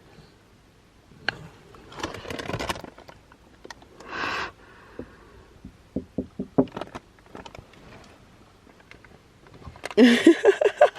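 Handling noises inside a car: a click, rustling and a brief scrape, with a woman's voice near the end.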